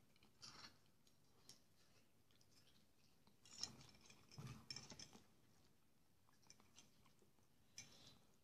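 Faint chewing and mouth sounds of a man eating wheat porridge and fried sausage, with a few short clicks and scrapes of a metal fork against a glass plate, the sharpest about three and a half seconds in.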